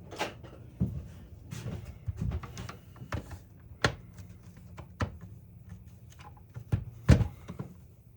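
Irregular knocks and clicks of hand tools and metal parts being picked up and set down on a workbench, about a dozen in all, the loudest a few seconds before the end.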